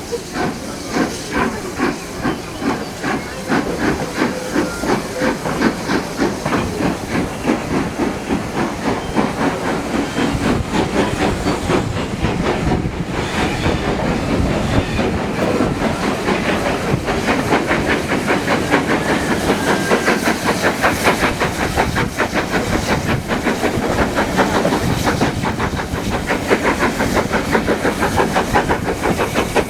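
Steam locomotive pulling away, its exhaust beats at first slow and spaced, then quickening steadily as it gathers speed, with steam hissing.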